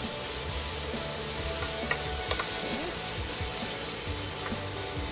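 Shrimp, prawn balls and mushrooms sizzling in a nonstick frying pan as they are stirred with a metal spoon, with a few light clicks of the spoon against the pan.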